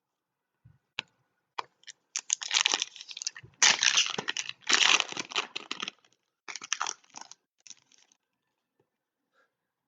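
Trading card pack wrappers being torn open and crinkled, with a few clicks, then a dense stretch of tearing and crinkling that trails off into shorter rustles.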